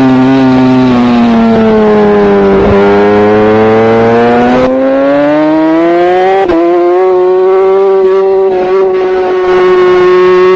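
Racing superbike engine heard onboard at close range. The revs fall for about three seconds as the bike slows, climb again as it accelerates, then hold high and steady for the last few seconds.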